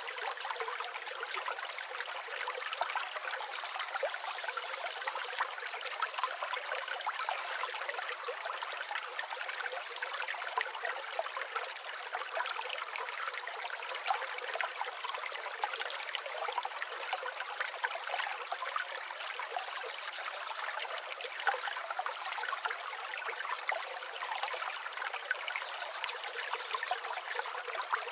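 River water flowing steadily over stones, a continuous rushing and trickling with no deep rumble.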